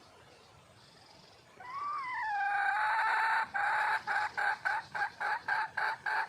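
Red junglefowl hen calling to attract a male: about a second and a half in, a note that rises and falls, then a drawn-out note, then a quick run of short repeated notes, about three a second.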